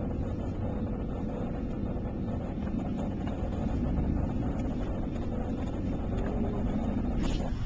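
Steady low rumble of a car's engine and tyres heard inside the cabin while driving, with a brief click about seven seconds in.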